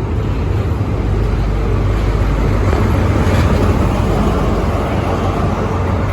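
HST diesel power car engine idling at the platform: a loud, steady low running sound that swells slightly midway.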